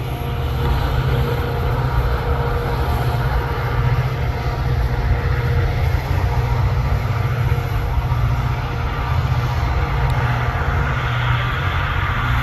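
Metra F40PH diesel-electric locomotive's EMD 16-cylinder 645 prime mover running under load as it shoves a passenger train, a steady low rumble with a few faint steady tones over it.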